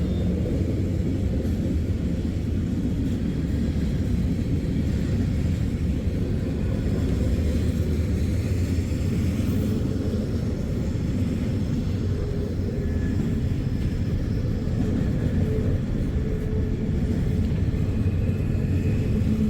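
Steady low vehicle rumble, with faint thin tones coming in near the end.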